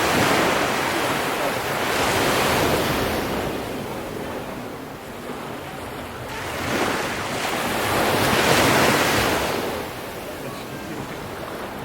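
Ocean waves surging onto the shore, two swells of surf about six seconds apart, with wind noise on the microphone.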